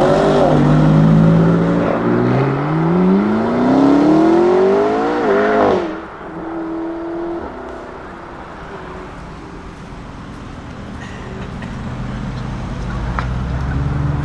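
Lamborghini Huracán STO's naturally aspirated V10 accelerating hard, its pitch rising, dropping at an upshift about two seconds in, then climbing again. It cuts off suddenly about six seconds in, leaving quieter engine noise that slowly grows louder toward the end.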